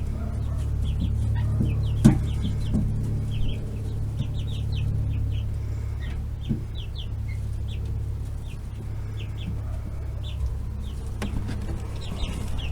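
Young chickens peeping: many short, high cheeps scattered throughout, over a steady low hum. A sharp click about two seconds in.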